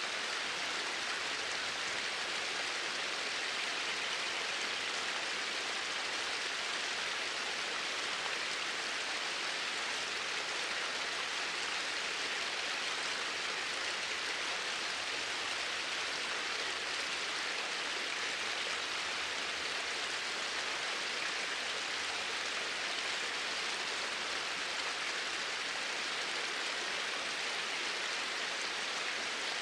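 Flowing water making a steady, even rush with no pauses or separate splashes.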